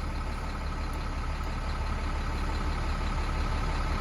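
Box truck engine idling steadily with a low hum.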